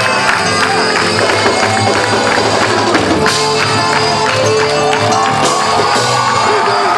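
A band playing a song, with a steady bass line, regular percussion and a wavering melody line in the second half.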